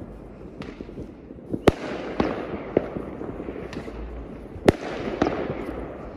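Many aerial fireworks going off all around: sharp bangs a second or so apart, the loudest two a little under two seconds in and near five seconds, each trailing off in a rolling echo, over a continuous rumble and crackle of more distant bursts.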